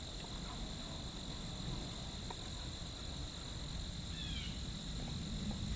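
Steady chorus of insects in late-summer woodland, a constant high-pitched trill, over a low rumble. A brief chirp sounds about four seconds in.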